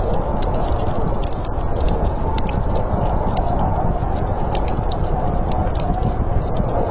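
Wood fire crackling, with scattered sharp pops, over a steady low rush of snowstorm wind.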